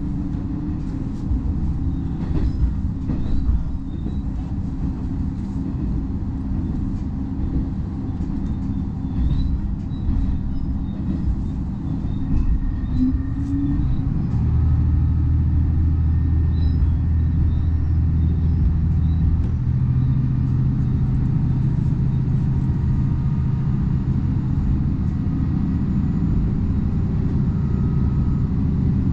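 Diesel railcar heard from inside the passenger cabin, running along the line with a steady rumble of engine and wheels on rail. About halfway in, the engine note grows louder and then steps up, as the engine works harder to pull the train along.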